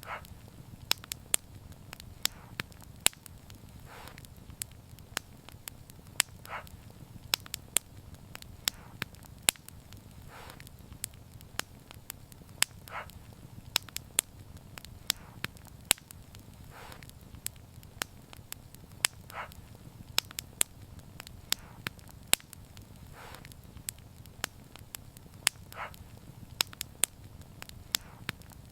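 Wood fire crackling: irregular sharp pops and snaps over a low steady rumble of flame, with a soft brief hiss every few seconds.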